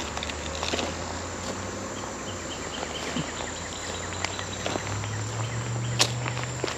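Insects droning outdoors: a steady high-pitched buzz, with a short run of quick chirps about two seconds in. Underneath runs a low steady hum, with a few scattered clicks, the sharpest about six seconds in.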